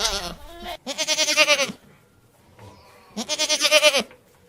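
Goat bleating: two long, quavering bleats about two seconds apart, with the tail of another bleat at the start.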